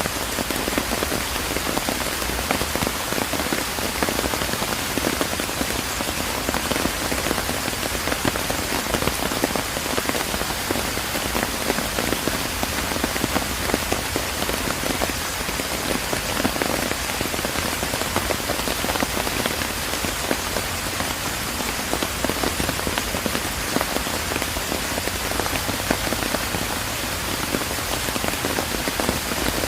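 Steady rain falling in a park, a dense even hiss made up of countless small drop hits, unchanging throughout.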